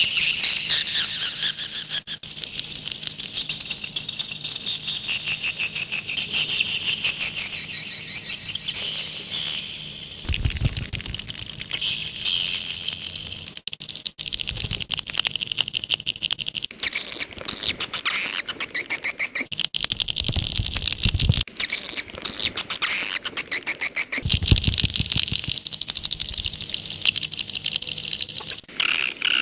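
Swiftlets calling: a dense, rapid chittering of many overlapping birds, of the kind used as a swiftlet-house lure call. Short low rumbles break in a few times.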